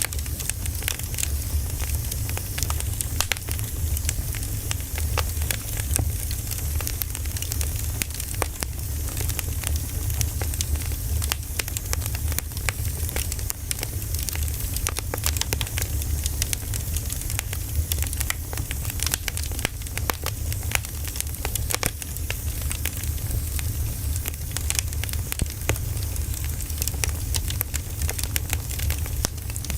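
Wood fire burning: a continuous, irregular crackle of sharp pops over a steady low rumble.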